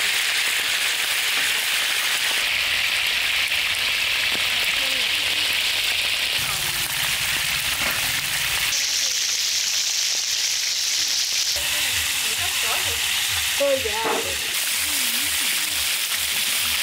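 Pieces of needlefish sizzling in hot oil on a large flat iron pan: a loud, steady frying hiss.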